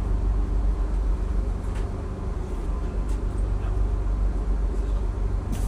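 Steady low rumble of a South Western Railway passenger train running along the line, heard from inside the carriage, with a short sharp click near the end.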